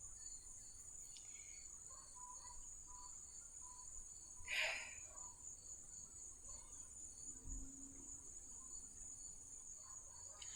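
Faint, steady high-pitched insect chirring with faint regular pulses, and a brief rustle about halfway through.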